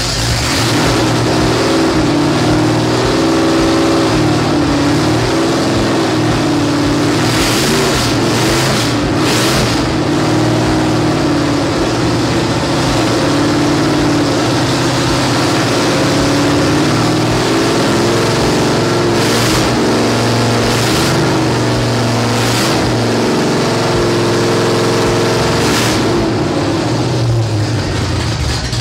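A 347 stroker small-block V8 in a 1967 Mustang running steadily, its engine speed rising and falling a few times.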